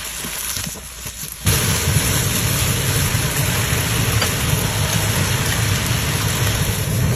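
Pot of chicken curry boiling hard on a stove burner: a steady low rumble with hissing bubbling that sets in about a second and a half in, after a quieter start.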